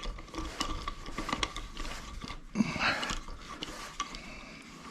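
Light, irregular clicking and scraping of a motorcycle's rear-view mirrors being unscrewed from their handlebar mounts.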